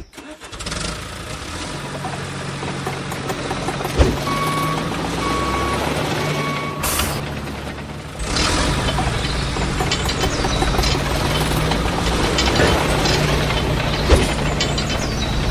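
Small motors of a miniature model tractor and thresher running with a steady hum. Three short beeps come between about 4 and 7 seconds in. From about 8 seconds a louder rattling machine noise with scattered clicks takes over.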